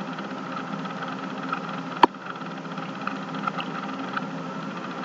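Steady low mechanical hum of an idling engine, with faint ticks and one sharp click about two seconds in.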